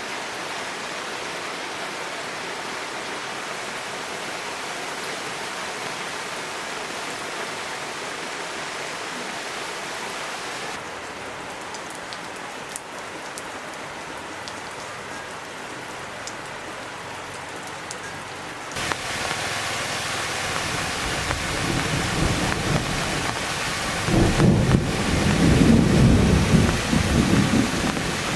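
Rain falling steadily, its sound changing abruptly twice, with a loud rumble of thunder swelling near the end.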